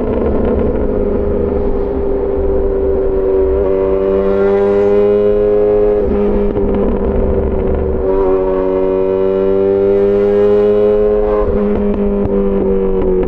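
Yamaha XJ6 S inline-four motorcycle engine through an SC-Project exhaust, riding in traffic. The engine pitch rises and eases off several times, with short breaks about six and eight seconds in and again near the end that fit gear changes.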